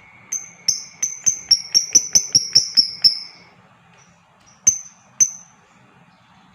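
Lovebird giving a quick series of about ten shrill chirps, roughly four a second, then two more single chirps near the end.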